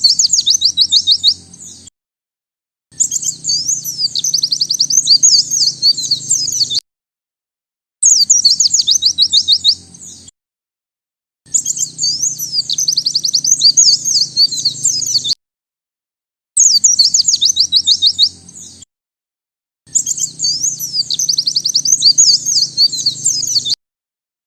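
White-eye (pleci) singing: rapid, high twittering trills in repeated bouts of two to four seconds, about six of them, each cut off into a second of complete silence.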